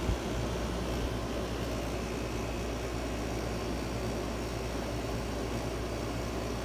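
Late-1980s 6,000 BTU Friedrich window air conditioner, without its sleeve or front cover, running steadily on cool: fan blowing and compressor humming.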